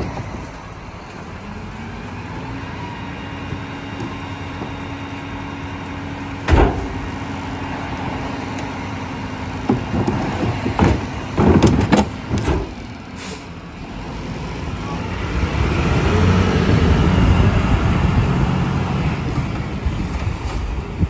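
Garbage truck's engine running while its hydraulic packer compacts trash: a steady engine drone, with several sharp bangs and clanks partway through. In the second half the engine and hydraulics grow louder for several seconds.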